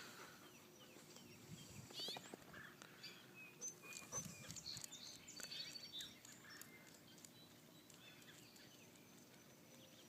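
Faint outdoor quiet with scattered distant bird chirps, thickest in the first half and thinning out toward the end, and a few soft clicks and rustles.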